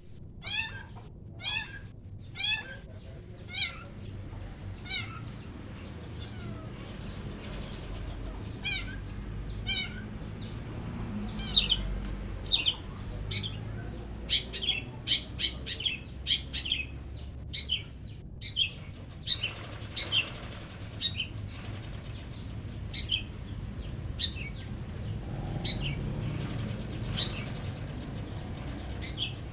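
Long-tailed shrike giving short sharp calls, one at a time about a second apart at first, then in a quick run of calls, then scattered again: scolding a cat.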